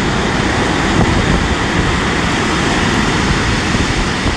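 Strong wind buffeting the microphone over a stormy sea's surf: a loud, steady rushing noise with gusty rumbling underneath.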